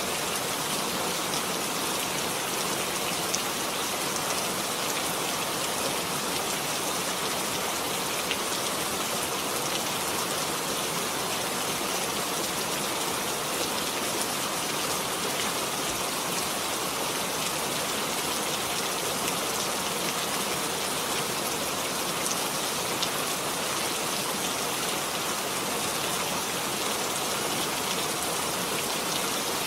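Steady rain falling, a dense even hiss with occasional individual drops ticking out of it.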